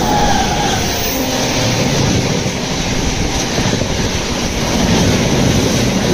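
Express passenger train passing close by at speed on the adjacent track, a steady loud rumble and rattle of its coaches going by.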